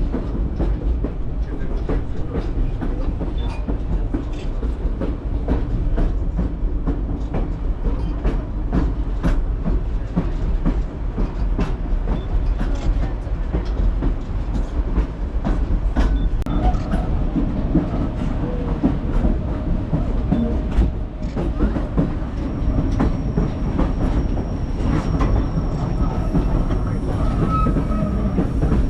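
White Pass & Yukon Route passenger train running, a steady low rumble with the wheels clicking over the rail joints.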